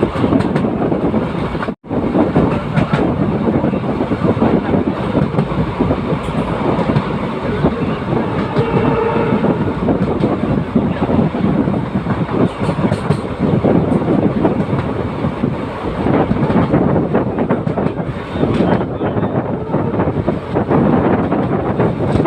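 Passenger express coach running on the track, heard from on board: a steady rumble and rattle with wheels clattering over the rails. The sound cuts out for an instant about two seconds in.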